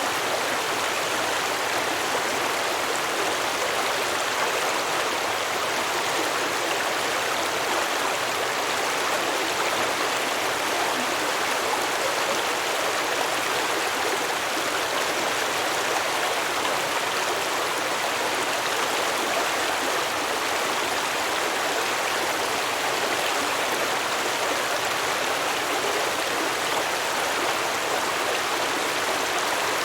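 A stream flowing steadily over rocks, a constant rushing and babbling of water.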